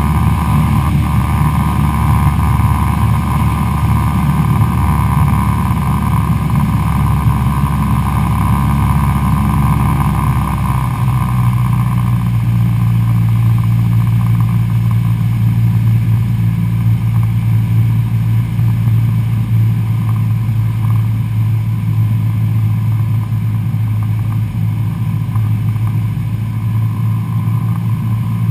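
Cessna 172SP Skyhawk's Lycoming IO-360 four-cylinder engine and propeller droning steadily in flight. About eleven seconds in, the drone drops to a lower pitch and holds there.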